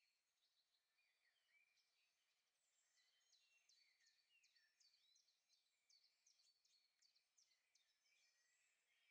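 Faint birdsong from several small birds in woodland, chirps and whistles with a quick run of short downward-sweeping notes in the middle.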